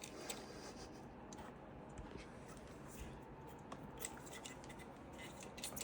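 Faint handling sounds: scattered light clicks and rubbing as small hard parts are handled.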